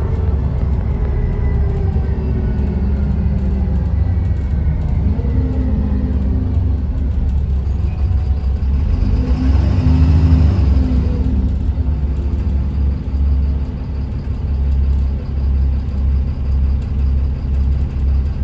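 Dennis Trident 2 double-decker bus engine running, its pitch falling over the first few seconds. A swell of noise builds and fades around ten seconds in, and a low pulsing drone follows near the end.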